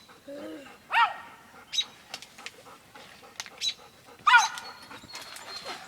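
A dog giving a few short, high yelps or whines, three in all, spread across a few seconds, among scattered light clicks and taps.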